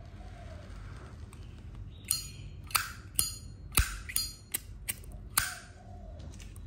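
Zippo lighter's hinged metal lid flicked open and snapped shut over and over: a run of about eight sharp metallic clacks, several with a short ringing ping.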